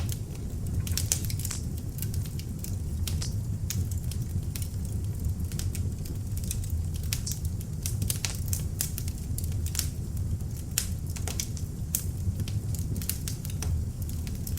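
Beech-wood log fire burning in an open fireplace, with frequent sharp crackles and pops over a low steady rumble.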